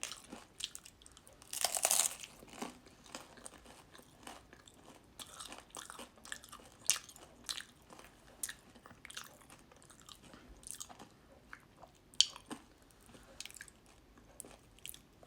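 Close-up crunching and chewing of a super crunchy fried cassava turon, a spring-roll wrapper filled with cassava and saba banana. One loud bite about two seconds in, then many small crisp crunches as it is chewed.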